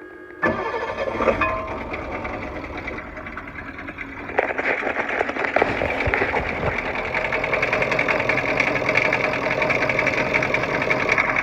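International T444E V8 turbodiesel starting about half a second in and running with a fast rhythmic clatter, louder from about four seconds in. The engine is cold and has a noise of unknown cause that the owner is trying to locate.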